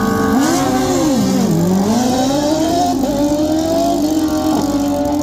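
Drag-racing motorcycle engine revved up and back down once, then running at a pitch that climbs slowly as the bike pulls forward.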